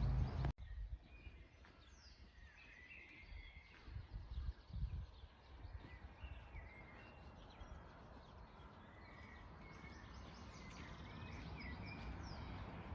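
Small birds singing, many short chirps and trills, over a faint low outdoor rumble that swells briefly about four to five seconds in.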